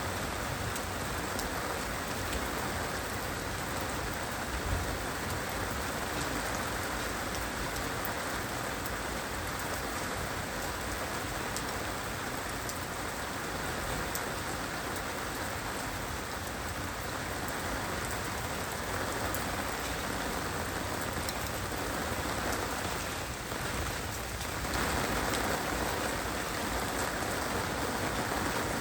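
Heavy rain falling steadily, a dense, even hiss of drops hitting surfaces. About three-quarters of the way in it eases for a moment, then comes back a little heavier.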